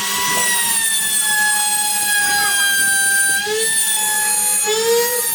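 A power tool's motor running with a steady high whine, its pitch sagging slightly about three seconds in and picking up again near the end, as if briefly taking load.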